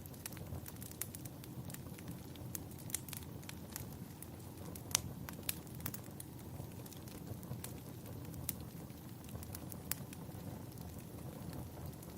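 Wood fire crackling in a fireplace: irregular sharp pops and snaps over a steady low rumble, the loudest pop about five seconds in.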